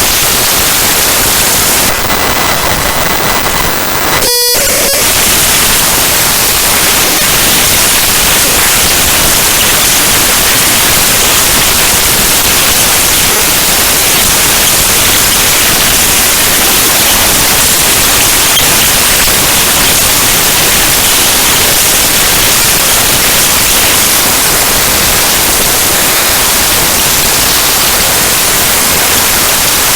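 Loud, harsh static-like noise from the raw bytes of the Windows kernel file ntoskrnl.exe played back as audio. About two seconds in, it thins to a patterned hiss with a steady high tone. About four seconds in, a brief buzzing stretch and a sudden drop follow before the full hiss returns.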